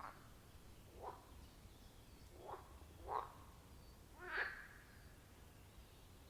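Frogs calling at a pond: about five short croaking calls a second or so apart, the loudest about three and four seconds in, over a faint low rumble.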